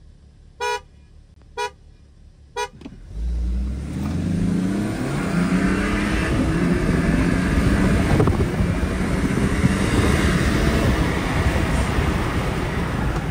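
Three short beeps about a second apart, then from about three seconds in the BMW 330d's 3.0-litre straight-six turbodiesel accelerating hard from a launch, heard from inside the cabin, its pitch climbing and dropping back at each gear change.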